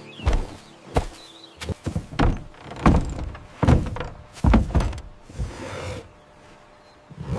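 A series of thuds and knocks, about a dozen at uneven spacing, that stop about five seconds in.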